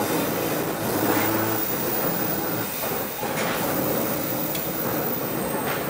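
Argo Parahyangan Premium passenger train running at speed, heard from inside the coach: a steady rush and rumble of wheels on rails, with a few sharp clacks as the wheels cross rail joints or points.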